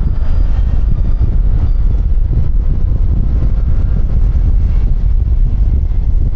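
Steady low wind rumble on an external microphone clipped to a motorcycle helmet's chin strap, with the road and engine noise of a QJMotor Fortress 160 scooter riding at speed beneath it.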